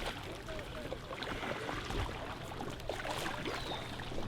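Kayak paddles splashing and dipping in lake water, in irregular strokes, with faint voices calling in the background.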